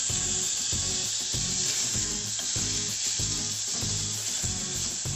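Diced onion, tomato and bell pepper sizzling in hot olive oil in a stainless steel saucepan as they are stirred with a plastic spoon, sautéing the base of a tomato sauce. Background music with a regular low beat, about two pulses a second, runs underneath.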